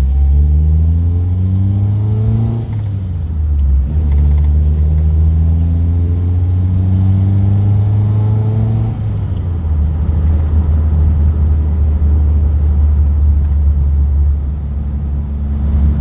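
Car engine heard from inside the cabin, pulling away through the gears. The revs climb, drop at a gear change about three seconds in, climb again until about nine seconds in, then settle to a steady cruise.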